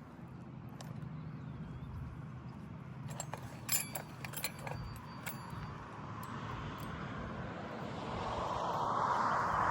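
A few sharp taps and clicks from roofing hand tools working a replacement asphalt shingle, bunched between about three and five seconds in, over a steady low hum. Toward the end a broad rush of noise swells up.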